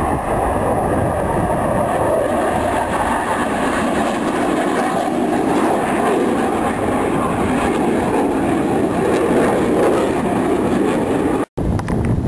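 Jet engine roar from Blue Angels F/A-18 Hornets flying past, a loud steady rush that drops slightly in pitch. It cuts out for an instant near the end.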